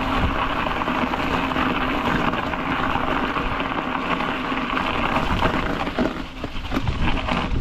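Steady rush of bicycle tyres rolling over an icy road surface, picked up by a camera mounted on the bike, with small knocks and rattles from bumps.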